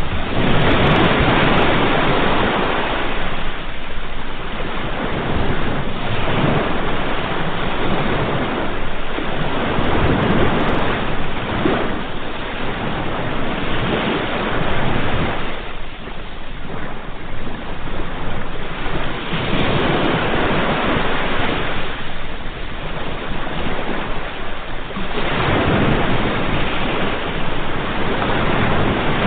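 Ocean waves breaking and washing on a shore, swelling and falling back in surges every few seconds.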